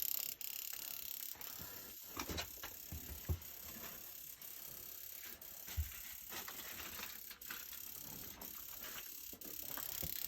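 Faint, scattered light clicks and a few soft knocks: small mechanical handling sounds, like tools or fittings being worked.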